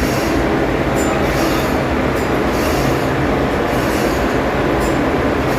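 Steady, loud machinery noise of a ship's engine room, a dense rumble with a constant low hum, broken by a few short metallic ticks.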